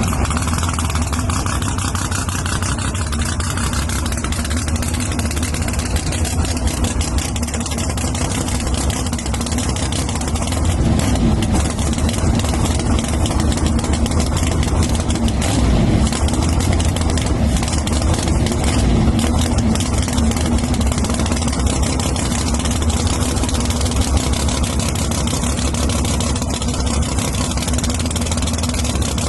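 Drag-racing engines idling with a steady low rumble, the pitch wavering a little through the middle.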